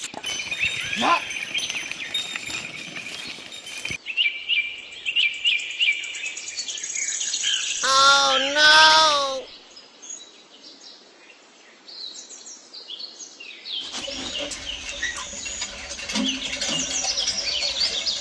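Birds chirping in quick repeated calls, with a loud wavering call lasting about a second and a half near the middle. After a quieter stretch, dense chirping of birds and insects returns.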